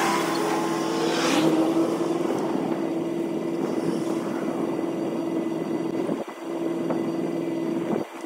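Motor vehicle engine idling with a steady, even hum.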